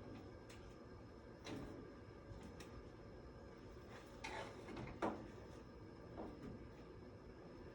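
A few scattered knocks and a short scrape, the loudest knock about five seconds in, like parts or tools being handled during work.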